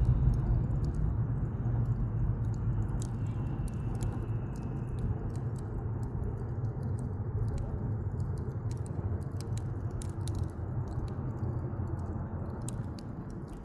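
Wood campfire crackling: irregular sharp pops and snaps over a steady low rushing noise that slowly grows quieter.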